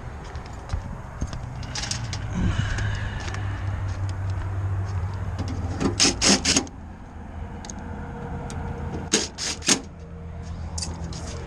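Commercial rooftop heat pump unit running with a steady low hum, with several sharp knocks, a cluster about six seconds in and two more about nine seconds in.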